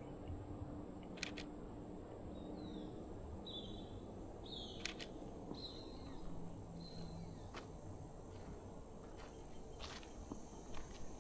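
Woodland ambience: an insect's steady high-pitched trill, a bird's short whistled notes about two to seven seconds in, and a few sharp clicks.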